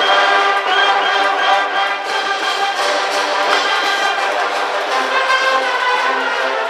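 High-school brass band playing a baseball cheering tune, holding full brass chords, with short repeated low notes coming in during the last couple of seconds.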